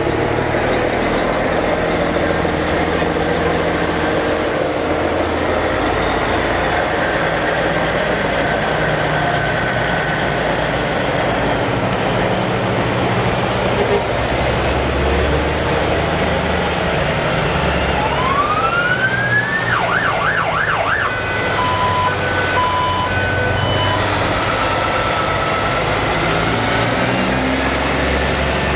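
Heavy trucks' diesel engines running steadily as the parade passes. About two-thirds of the way through, a siren winds up and switches to a fast warbling yelp, followed by a few short beeping tones.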